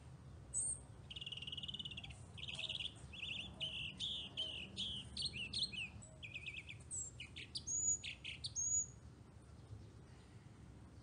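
A songbird singing a long, varied song of buzzy trills, rapid chirps and high whistles, ending about nine seconds in.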